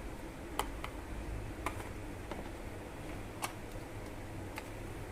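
A few scattered light, sharp clinks of kitchen utensils against a bowl, about six in five seconds, over a low steady hum.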